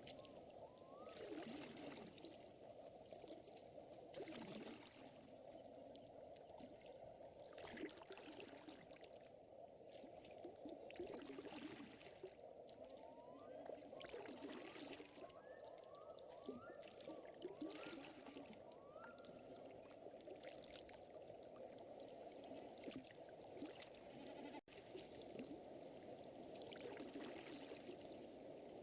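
Faint lakeside nature ambience: a steady wash of moving water with softer swells every few seconds, and short rising chirps from a small animal coming in brief runs. The sound drops out for an instant about 25 seconds in.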